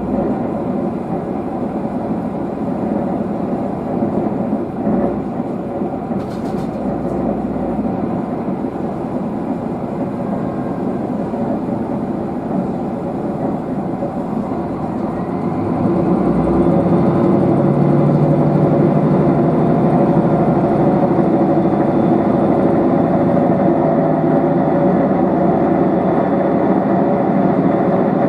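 Diesel railcar's engine and running gear heard from inside the passenger car as the train gets under way, a steady drone that grows louder about halfway through as the engine takes more power.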